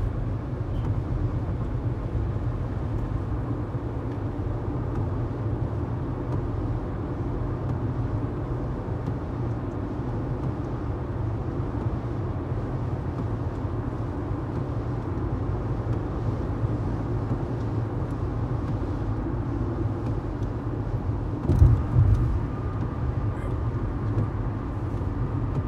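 Steady low rumble of a running vehicle, with a brief louder thump about 21 seconds in.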